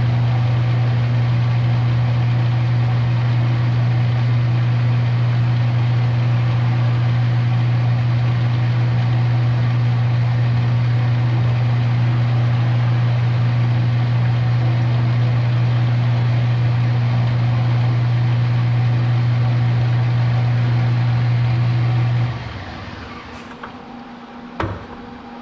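Metal lathe running with a steady motor hum while cutting the end of a bushing to length. It shuts off about 22 seconds in, and a single knock follows a couple of seconds later.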